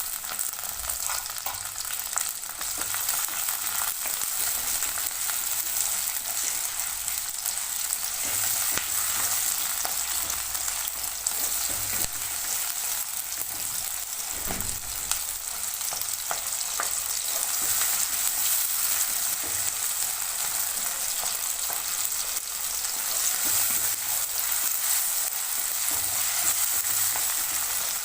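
Chopped onions and freshly added tomatoes sizzling steadily in hot oil in a kadai as they are sautéed and stirred, with scattered short clicks from the stirring.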